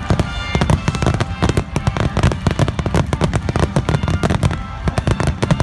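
Fireworks display going off in rapid succession: many sharp bangs and crackles packed close together over a continuous deep rumble.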